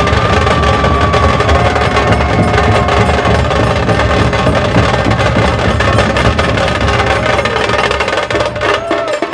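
Dhol Tasha ensemble playing: massed dhol barrel drums and tasha snare drums beating a fast, dense, continuous rhythm. The drumming stops abruptly near the end.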